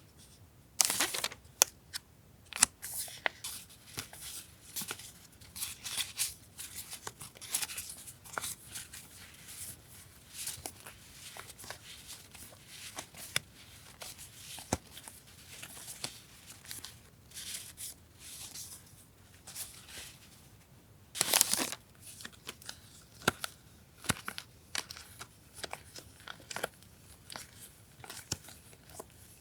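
Paper stationery and packaging handled close to the microphone: irregular rustling, crinkling and small clicks, with a louder rustle or tear about two-thirds of the way through.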